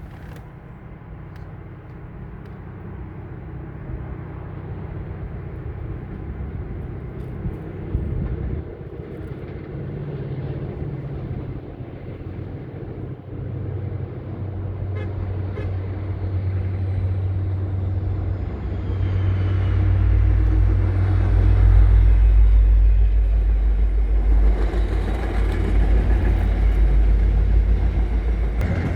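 MBTA commuter train's diesel locomotive running with a steady low rumble that grows louder, loudest about two-thirds of the way in.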